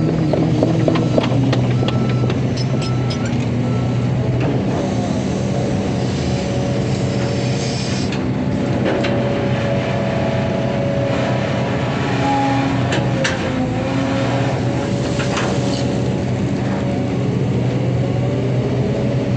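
Hydraulic excavator working: its diesel engine runs steadily, with a hydraulic whine that shifts up and down in pitch and a few sharp metallic clanks.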